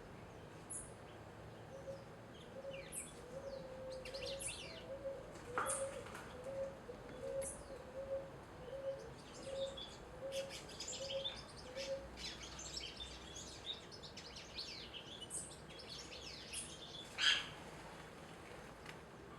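Several small birds chirping at a feeder, short high calls scattered throughout, with one louder sharp call late on. Under them, for about the first half, a low note repeats evenly about one and a half times a second.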